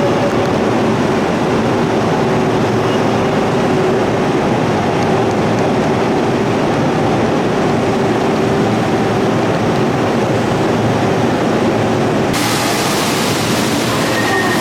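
An electric train moving along the station platform: a steady rumble with a steady mid-pitched hum. The noise turns suddenly brighter and hissier near the end.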